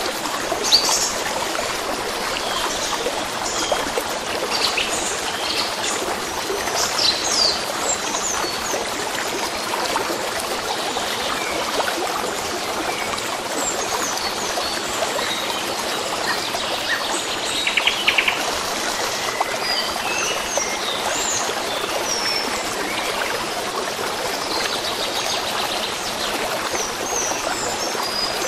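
A stream running steadily, with small birds chirping over it, their short calls scattered throughout and a quick trill about two-thirds of the way in.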